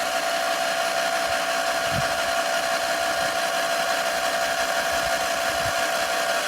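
Electric dirt bike's motor and drivetrain whining at full throttle, held at one steady high pitch over a hiss.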